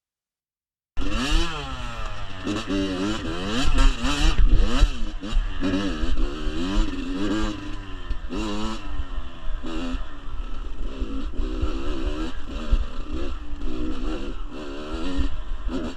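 Kawasaki KX85 two-stroke dirt bike engine revving up and down, the pitch rising and falling every second or so as the bike is ridden over rough trail, with clattering knocks. It cuts in suddenly about a second in.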